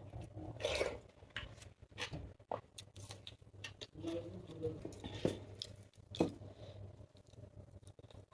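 A person chewing and eating a meal of panta bhat with fried sides, irregular chewing and biting sounds.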